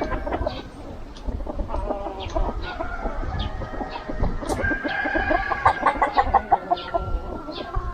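A flock of free-range chickens clucking and calling, with a quick run of clucks about six seconds in.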